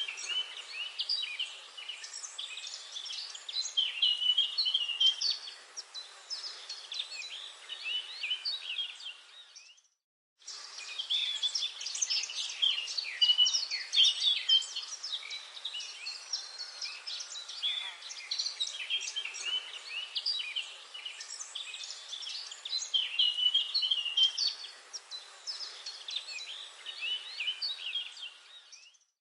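Forest birdsong: many birds chirping and trilling over a faint hiss. The sound cuts out to silence for about half a second about ten seconds in and again near the end.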